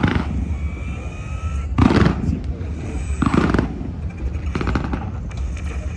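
Aerial fireworks bursting over and over in a display: four booms about a second and a half apart, with crackling after some of them, over a steady low rumble.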